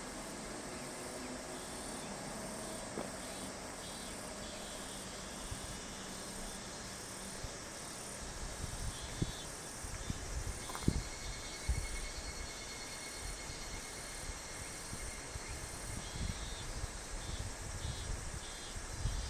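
Summer cicadas and other insects calling in pulsing, repeated trills over a steady hiss. Irregular low rumbles and thumps come in from about eight seconds in.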